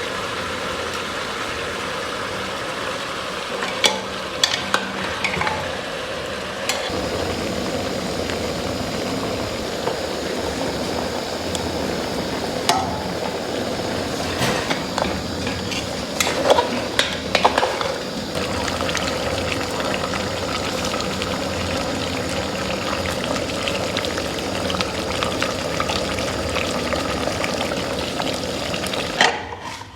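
Food sizzling as it fries in a hot pan while it is stirred, with a utensil now and then knocking and scraping against the pan. The sizzle grows a little fuller about a quarter of the way in.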